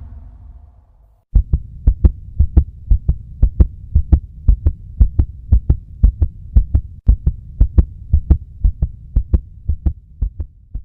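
Heartbeat sound effect: a steady run of deep, thudding pulses, several a second, starting about a second in.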